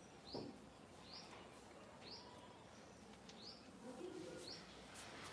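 A bird chirping faintly over and over, one short rising chirp about once a second, with a soft knock just after the start.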